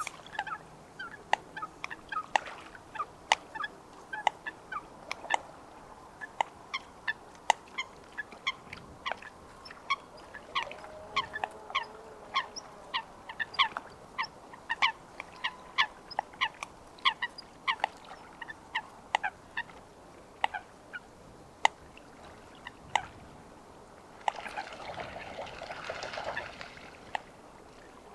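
Eurasian coot giving a long series of short, sharp calls, two or three a second, with a burst of denser chattering near the end.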